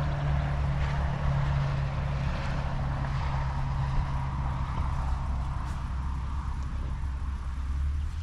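Steady vehicle noise: a low, even engine hum under a continuous rushing haze.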